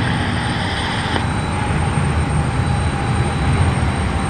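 Jet aircraft engines running at an airport: a steady rumble. A hiss cuts off sharply about a second in.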